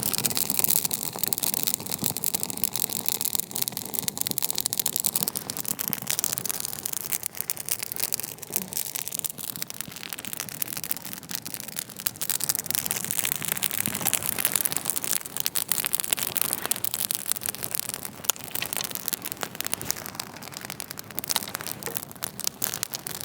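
Newly lit campfire catching in damp kindling and wax-paper tinder, crackling densely and unevenly.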